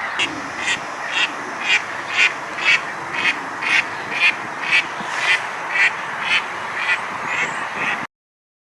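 Duck quacking in a steady series of short calls, about two a second, over a constant background hiss; the sound cuts off suddenly near the end.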